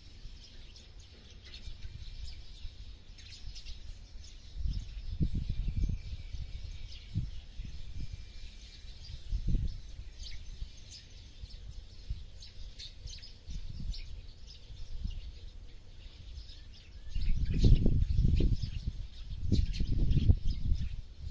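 Many small birds chirping and twittering, with several bursts of low rumble, the loudest near the end.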